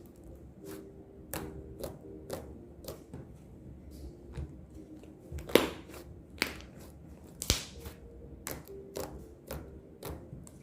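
Irregular clicks and taps of small objects being handled by hand, with two sharper, louder snaps around the middle, over a faint steady hum.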